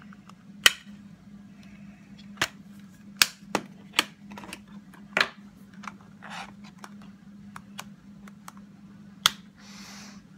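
Sharp plastic clicks and knocks of rubber-stamping supplies being handled: an ink pad's lid snapping shut, a clear stamp on an acrylic block tapped onto the ink pad and pressed onto card. About a dozen irregular knocks with a couple of short scuffs, over a low steady hum.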